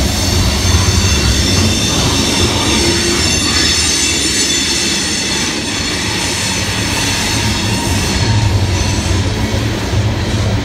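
A coal train's freight cars rolling past close by: a steady rumble of steel wheels on the rails with a high, steady wheel squeal running over it.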